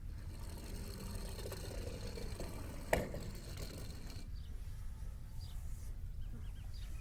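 Die-cast toy cars rolling down a plastic track, a rattling whir of small wheels lasting about four seconds, with a sharp click about three seconds in.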